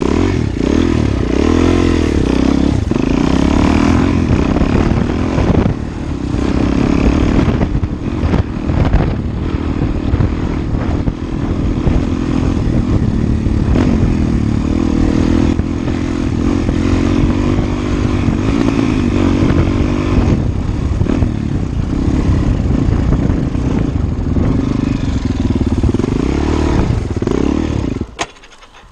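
Suzuki DR-Z400E single-cylinder four-stroke dirt bike engine heard from on board while riding, the revs rising and falling again and again with the throttle. The engine sound drops away sharply near the end.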